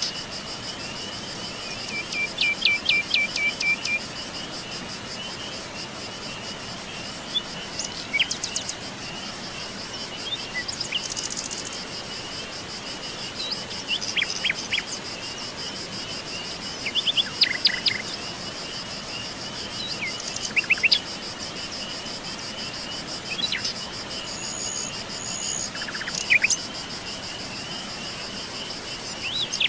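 Forest songbirds calling in short chirps, whistles and a fast trill of repeated notes early on, over a steady high-pitched insect chorus.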